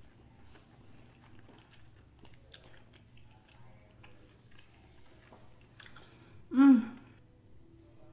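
A person chewing king crab meat, with soft wet mouth sounds and a few small smacking clicks. About three-quarters of the way through comes one short, loud vocal sound.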